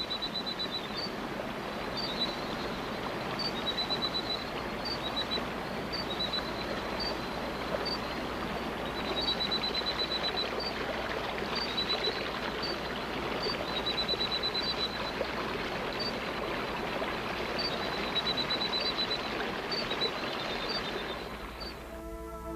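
Steady rushing water noise of a wet rainforest, with short high-pitched animal chirps repeating about once a second and now and then a quick trill of pulses.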